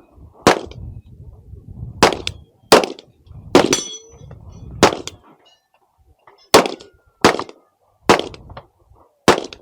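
Gunshots at an irregular pace, about nine in all, each with a short ringing tail; around the middle a high metallic ring follows a shot, like a steel target being hit. A low rumble of wind on the microphone runs under the first half.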